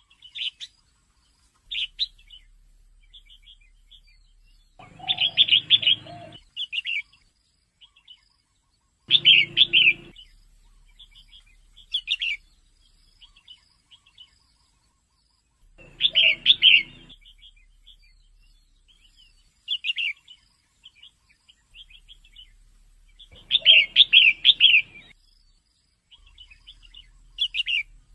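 Female red-whiskered bulbul calling: short chirps scattered throughout, with four louder bursts of several quick notes every few seconds.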